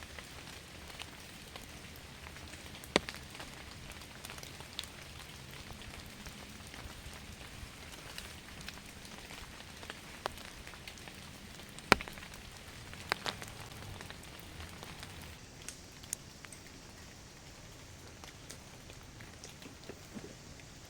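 Steady rain falling, with scattered sharp ticks; the loudest come about three seconds in and twice around twelve to thirteen seconds in. The rain eases slightly in the last few seconds.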